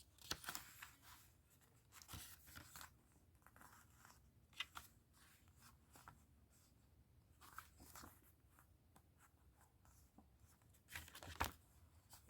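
Quiet handling of a CD jewel case and its paper booklet: scattered short rustles and clicks as the booklet is leafed through, the loudest near the end.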